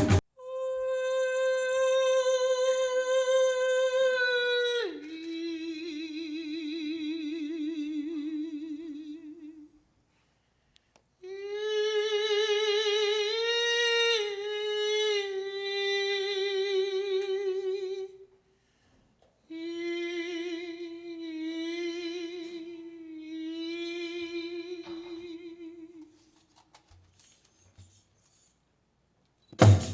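A woman's voice singing unaccompanied, wordless long notes with vibrato. There are three phrases with short pauses between them. The first note is held high and then drops about five seconds in.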